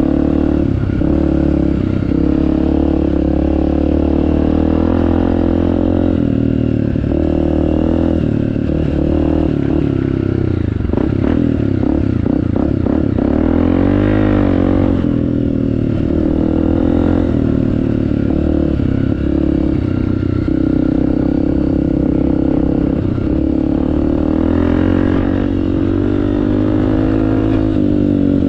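Honda CRF250F single-cylinder four-stroke dirt bike engine with an FMF exhaust, ridden at low revs, with a note like a lawnmower. The pitch rises and falls several times around the middle as the throttle is worked, then settles back to a steady low-speed run.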